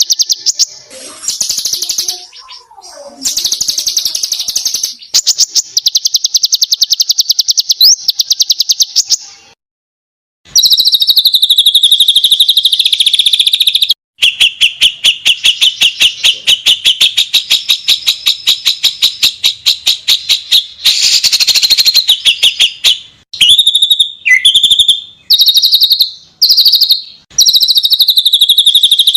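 A small songbird singing long, fast rolling trills: high notes repeated many times a second in runs lasting several seconds, with short breaks between them and choppier phrases near the end.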